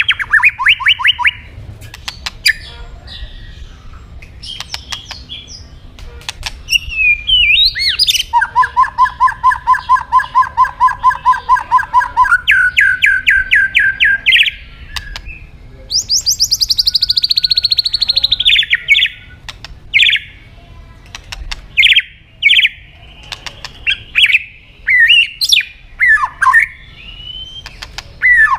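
White-rumped shama singing a loud, varied song. It runs fast series of repeated notes, has one long series that falls in pitch, and scatters sharp clicking notes between phrases.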